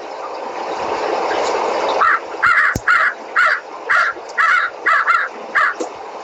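Crow cawing, a quick series of about nine harsh caws about half a second apart. They start about two seconds in, over a steady rushing background noise.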